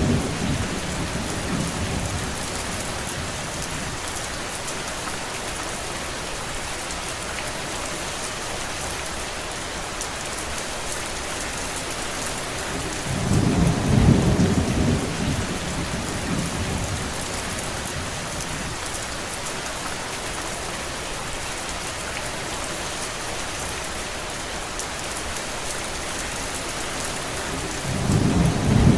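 Steady rain, an even hiss. A low rumble swells up for a few seconds as it begins, again about halfway through, and once more at the very end.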